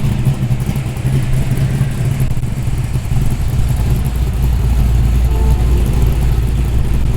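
A car engine running at low revs with a deep, steady rumble; the lowest notes grow stronger about four seconds in.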